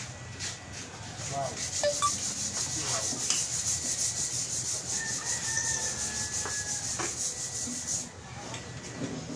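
Fast, even back-and-forth scraping strokes, about six a second, stopping sharply about eight seconds in.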